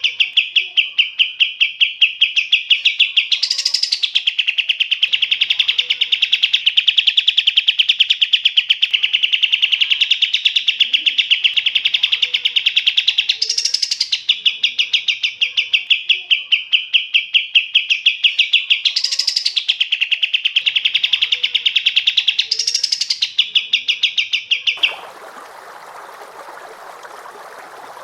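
Recorded songbird singing a fast, continuous trill of rapid repeated notes, broken every few seconds by a brief higher note. About three seconds before the end the song cuts off suddenly, leaving a steady hiss.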